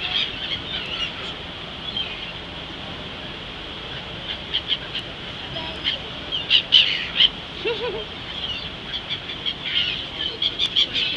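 A flock of seagulls calling while being fed: short, sharp calls in clusters, loudest about six to seven seconds in and again near the end.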